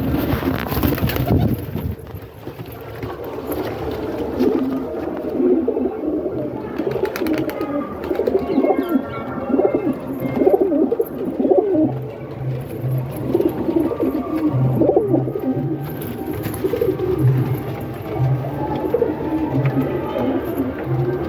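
Domestic high-flyer pigeons cooing, many short calls overlapping one another throughout.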